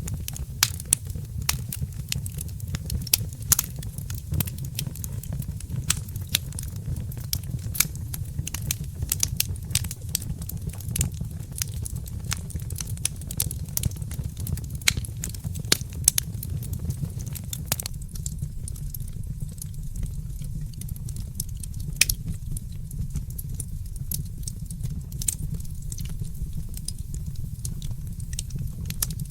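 Fireplace fire crackling: irregular sharp pops and snaps over a steady low rumble, the pops thinning out about two-thirds of the way through.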